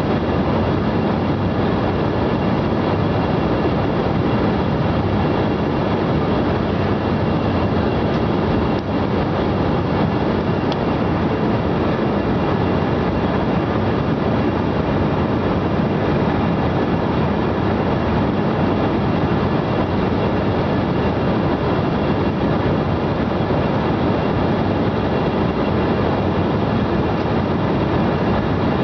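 Steady airliner cabin noise in flight: an even rush of jet engine and airflow noise with faint steady tones above it.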